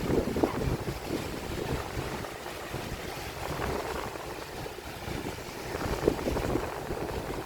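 Sea waves breaking and washing on the beach, with strong wind buffeting the microphone; the surf swells louder near the start and again about six seconds in.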